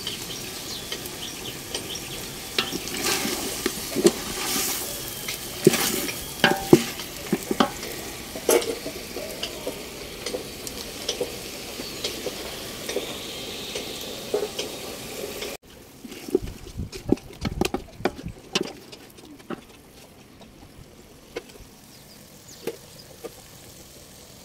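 Chicken sizzling as it fries in a metal pot, stirred with a wooden spoon that knocks and scrapes against the pot's sides. The frying is quieter in the last third.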